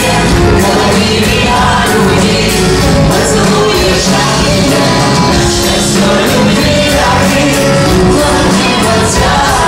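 Several voices singing a song together over loud instrumental accompaniment with a steady bass, in a large hall.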